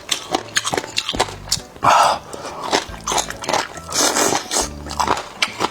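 Close-up eating sounds of someone biting and chewing marinated boneless chicken feet: rapid wet clicks and smacks, with two louder crunchy or slurping bursts about two and four seconds in.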